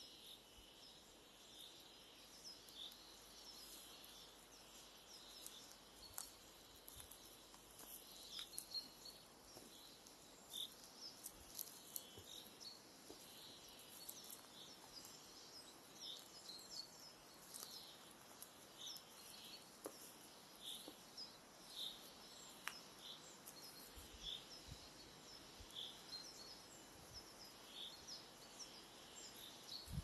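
Faint songbirds singing in a spring forest: short high chirps repeating about once a second, with other scattered high calls over a soft background hiss.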